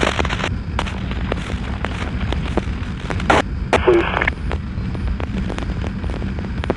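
Steady low rumble of a motorcycle engine and wind while riding, with scattered clicks and two short bursts of static from a police scanner about three and four seconds in.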